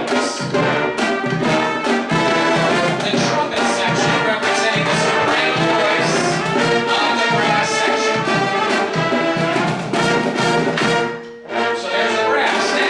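High school band playing a brass-led tune live, trumpets and trombones over a steady beat, with a short break near the end before the music comes back in.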